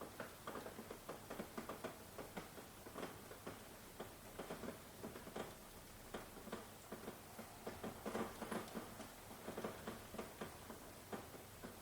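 Rain falling, heard as a steady patter of many close, irregular drops ticking and tapping.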